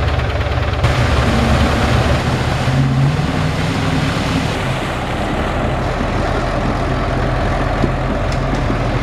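Big Dodge 4x4 mud truck's engine running hard, loud and continuous, its note rising and falling.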